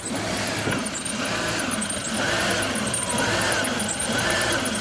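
2007 Chevy Tahoe's 5.3 V8 idling while still cold, its intake manifold gasket leaking vacuum. A dry accessory belt squeaks over and over, a little more than once a second.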